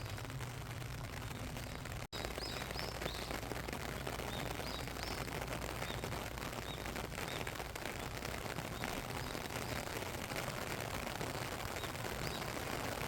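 Steady rain falling, a dense patter of drops, with a few short bird chirps about two to five seconds in and again near the end. The sound cuts out for an instant about two seconds in.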